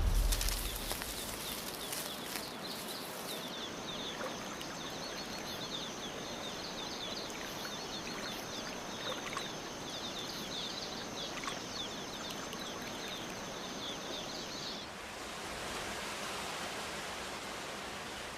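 Rainforest ambience: a steady high whine with rapid chirping calls over a background hiss. About 15 s in, the whine and chirps stop, leaving a slightly louder even hiss like running water.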